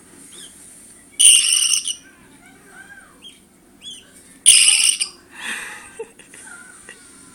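Baby birds peeping, with many small gliding chirps and two loud, shrill calls, one just after a second in and another about four and a half seconds in.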